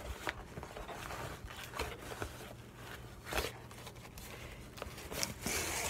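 Mail packaging being opened by hand: paper or plastic rustling and tearing in irregular short scrapes and clicks, with a longer rustle near the end.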